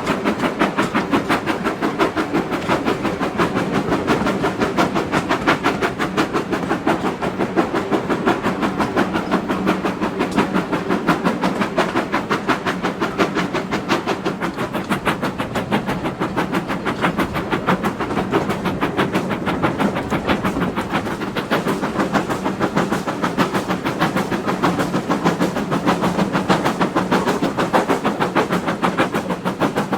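Steam locomotive No. 9351, a GWR-style 2-6-0, working steadily under steam, with a rapid, even exhaust beat that continues without a break.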